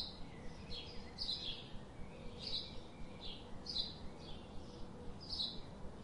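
A bird calling over and over, short high notes that slide down, repeated at uneven gaps of about half a second to a second, faint against open-air background noise.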